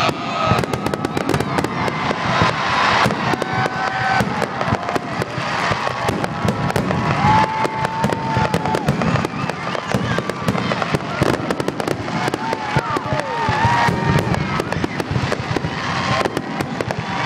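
An aerial fireworks display: a dense, continuous run of bangs, pops and crackles, with a few held and wavering whistle-like tones in the middle.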